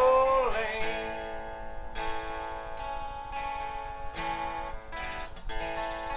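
Acoustic guitar strumming slow chords that ring out, closing the song, with a few fresh strums; a held sung note ends about a second in.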